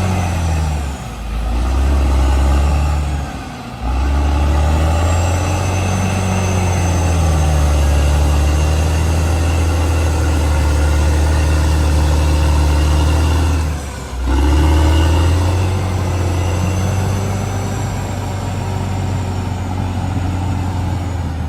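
CAT D6R XL bulldozer's diesel engine running under load, its pitch rising and falling as it works. The engine note drops briefly about a second in, near four seconds and again about fourteen seconds in, with a faint high whine above it.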